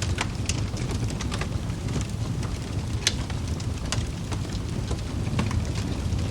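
Wood fire burning in a fireplace: a steady low rumble of flames with frequent sharp crackles and pops from the burning logs, a few of them louder, such as one about three seconds in.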